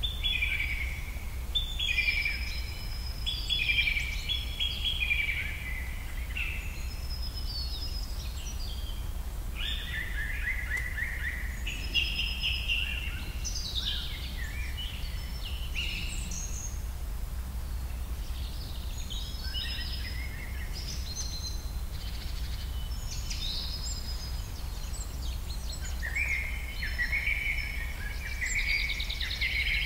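Birds chirping and chattering in bursts, several calls overlapping at times, over a steady low rumble.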